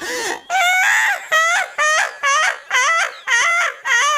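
A bird calling over and over, about two short, arched calls a second, each call rising and then falling in pitch.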